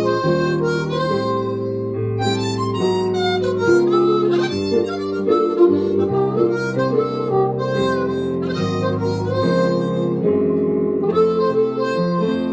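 Harmonica playing a slow blues melody in long held notes, some of them bent, over a steady lower chordal line.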